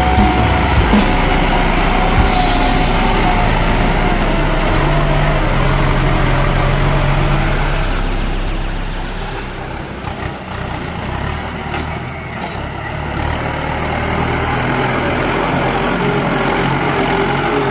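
Kubota M8540 tractor's diesel engine running steadily under load while pulling a five-disc plow. It grows fainter about halfway through and comes back up near the end.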